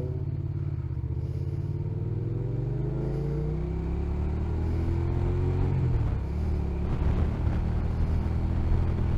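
Motorcycle engine heard from the rider's seat, pulling away and accelerating with rising pitch. The pitch drops about six seconds in, as at an upshift, then the engine runs on louder.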